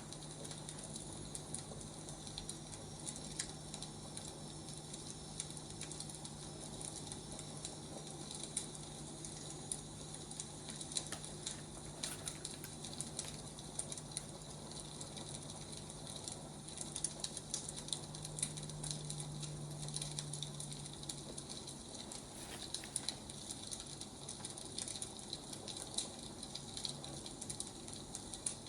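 Wood fire crackling, with irregular sharp pops and snaps over a soft hiss. A low steady hum sits underneath and fades out about three-quarters of the way through.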